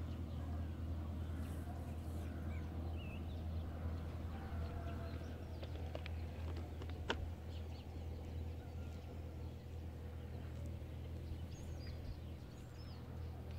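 Birds chirping here and there over a steady low rumble, with one sharp click about halfway through.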